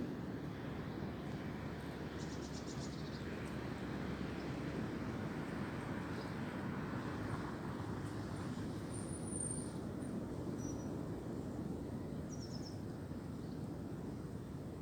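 Wind blowing through tree branches and leaves: a steady rushing that swells a little around the middle. A few faint, high bird chirps sound in the second half.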